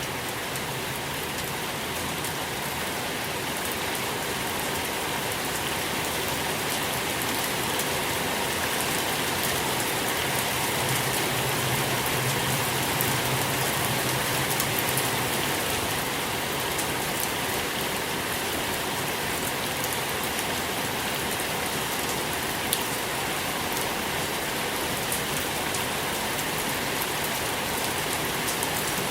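Steady rain falling on a surface, an even hiss with many small drop patters, swelling slightly in the middle.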